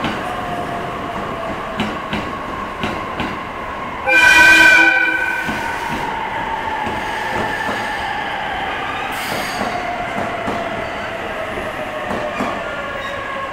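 E657 series electric train slowing to a stop alongside the platform, its motor whine falling steadily in pitch as it brakes, with wheel clicks over rail joints in the first few seconds. About four seconds in comes a loud horn-like blast lasting about a second and a half, and near nine seconds a short hiss.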